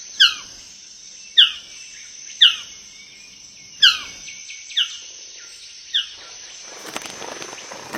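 Male magnificent bird of paradise calling: six sharp calls, each sliding down in pitch, about one a second. A steady high insect drone runs underneath, and a short rustle comes near the end.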